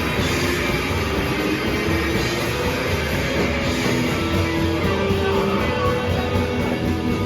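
Live rock band playing loud and steady: distorted electric guitars over a pounding drum kit.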